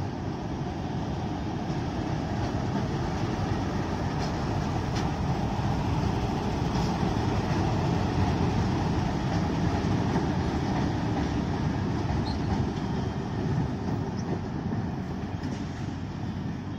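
Broad-gauge diesel-electric locomotive and its train running on the line. The sound builds to its loudest around the middle and eases off toward the end.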